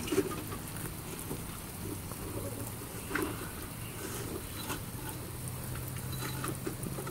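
Steady rain falling on wet soil and puddled runoff, with scattered individual drop ticks and a couple of louder knocks.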